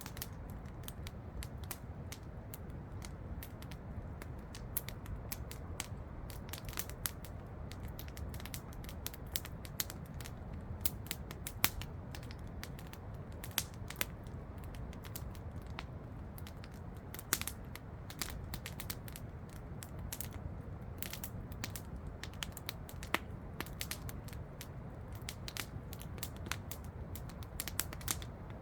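Campfire crackling, with irregular sharp pops scattered throughout, over a steady low rush of falling water from a waterfall.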